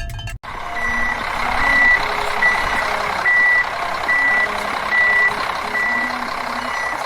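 Truck reversing alarm beeping at an even pace, a little faster than once a second, over a steady rushing vehicle noise; it starts suddenly about half a second in.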